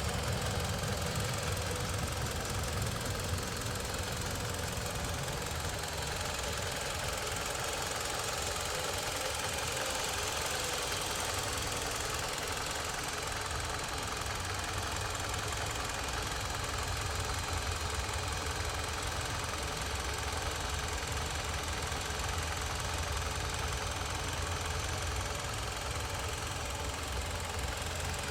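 2010 Citroën C-Crosser's 2.4-litre 16-valve inline-four engine idling steadily.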